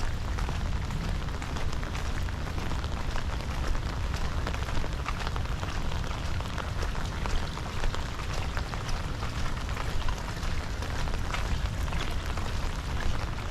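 Heavy rain falling steadily, with many sharp individual drop hits over a dense patter, and a steady low rumble underneath.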